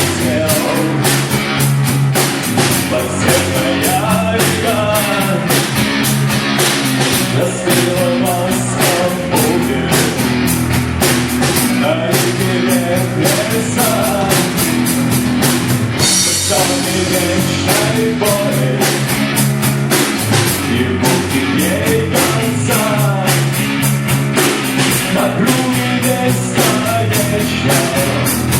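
Live rock band playing, with a drum kit keeping a steady beat under guitars and a bending melody line.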